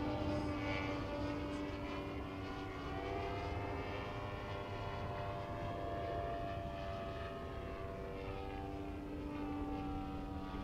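Gasoline engine and propeller of a giant-scale radio-controlled Yak-54 aerobatic plane in flight, a steady propeller drone whose pitch rises a few seconds in and slowly falls in the second half.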